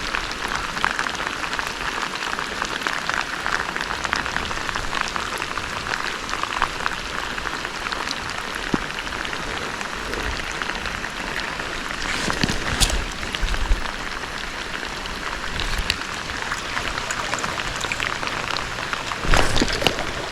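Heavy rain falling, a steady dense hiss of many small drops. A brief louder burst of sound comes near the end.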